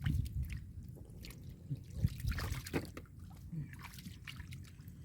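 Shallow muddy water sloshing and trickling with small irregular splashes, as hands dig and grope in it for fish.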